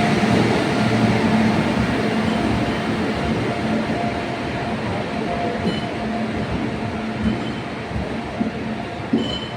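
Freight train hauled by WAG-9 and WAG-12 electric locomotives running past: a steady rumble with a humming tone, slowly fading.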